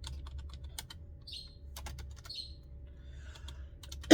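Irregular clicks of typing on a computer keyboard, with a few short soft rustles between them, over a steady low hum.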